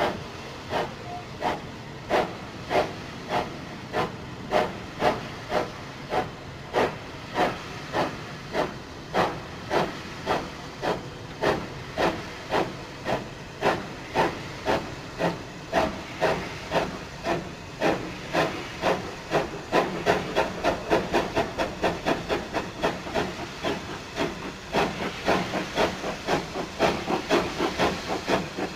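Steam locomotive working hard under steam, its exhaust chuffing in sharp regular beats over a steady hiss. The beats start at about one and a half a second and quicken as it picks up speed, coming much faster and closer together in the last third.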